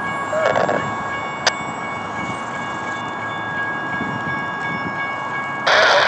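A BNSF freight train led by GE ES44 diesel locomotives approaching from a distance, with a steady high-pitched chord of several tones held throughout. A brief loud rush cuts in near the end.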